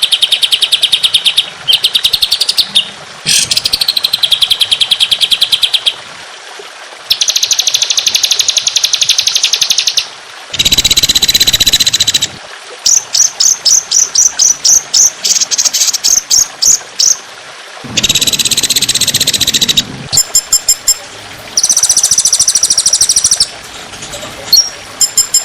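Recorded songbird song of the masteran kind played to train caged songbirds: phrases of very fast, high-pitched trills, each a second or two long, with short pauses between, and two harsh, raspy bursts near the middle and about three quarters of the way in.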